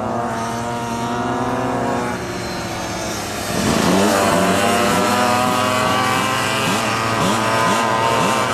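Small two-stroke minibike engines racing past: a steady high engine note for the first two seconds, then from about three and a half seconds several engines revving up and down over and over, louder as they come close.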